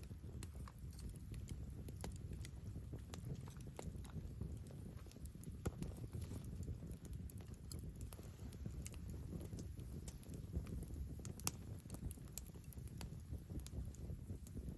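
Wood campfire crackling, with scattered sharp pops over a low steady rumble; two louder pops about six and eleven seconds in.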